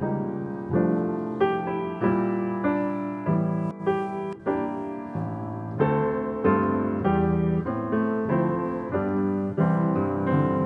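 Solo piano playing a slow piece, chords struck every half second to second and left to fade.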